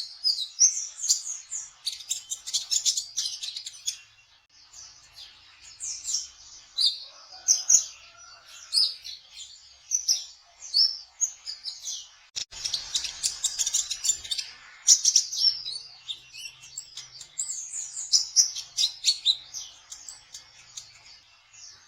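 Kolibri ninja sunbird singing a rapid, high-pitched twittering song of short chirps and slurred notes, broken by fast rattling trills twice.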